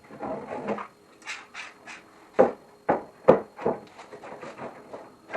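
Wooden boards being handled and set down: a string of knocks and clatter, the four loudest knocks close together about halfway through, with lighter clicks before and after.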